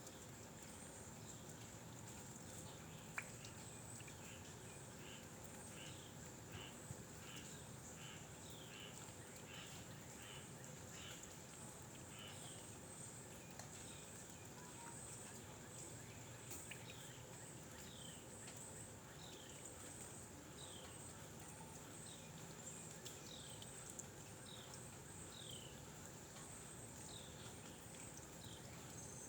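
Faint outdoor ambience: a bird gives runs of short falling chirps, about one and a half a second, over a steady high hiss.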